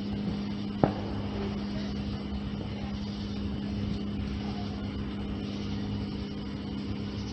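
Steady motor hum holding one pitch, with a single sharp knock about a second in.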